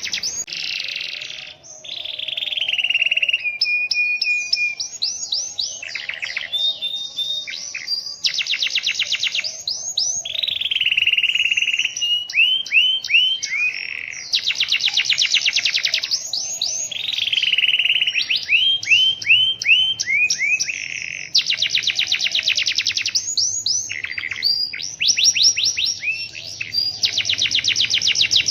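Domestic canary singing a long, nearly unbroken song of fast trills and rolls, changing to a new trill every second or two.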